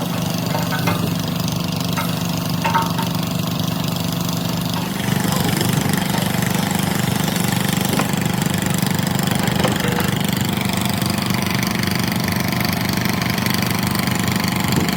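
An engine running steadily, a little louder from about five seconds in.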